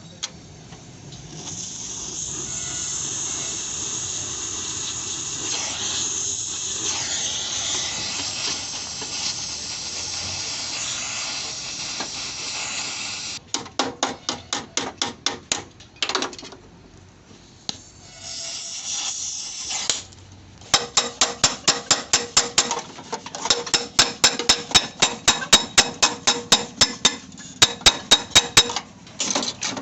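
Hammer blows on car sheet metal, panel beating to straighten dents, coming in fast runs of several strikes a second with a metallic ring. They follow a long stretch of steady high hissing from a power tool or air.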